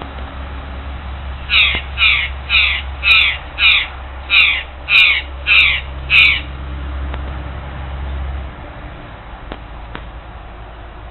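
A bird calling nine times in a quick, even series, about two calls a second, then falling silent about six seconds in.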